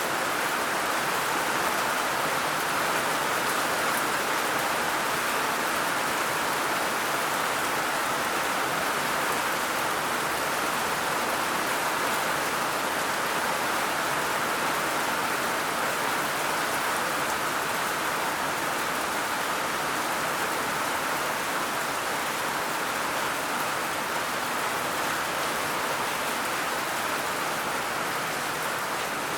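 Steady rain falling, a dense even hiss of raindrops.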